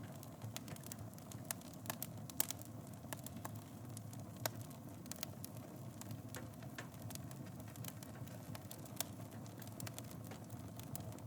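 Wood fire burning in a fireplace: a steady low rumble of flames with irregular crackles and sharp pops, two of them louder, about two and a half and four and a half seconds in.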